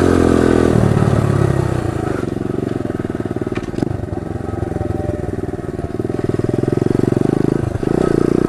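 Pit bike engine running while being ridden, easing to lower revs a couple of seconds in and picking up again about six seconds in.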